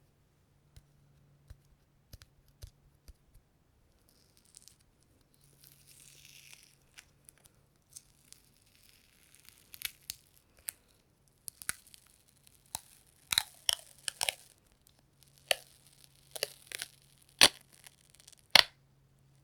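Something sticky being pressed and peeled apart close to the microphone: faint clicks at first, a soft rustling stretch, then sharp tearing peels that come more often and grow louder, the two loudest near the end.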